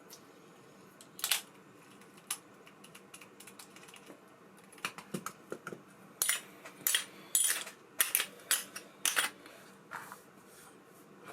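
A series of sharp clicks and taps of small hard parts, as an ABU Ambassadeur 5500C baitcasting reel is handled: one loud click about a second in, then a quick run of about a dozen clicks from the middle to near the end.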